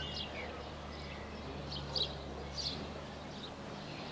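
Birds chirping outdoors: a few short, high calls scattered through, over a steady low hum.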